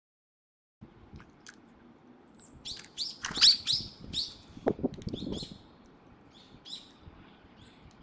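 Songbirds chirping outdoors, starting about a second in, with a burst of loud, shrill chirps a few seconds in and softer calls after.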